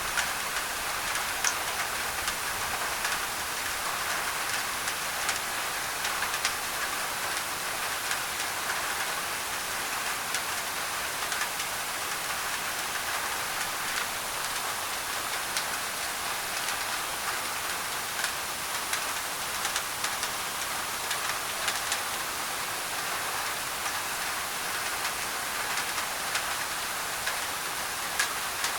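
Rain falling on a thin tin roof, mixed with white noise: a steady hiss scattered with many small, sharp drop ticks.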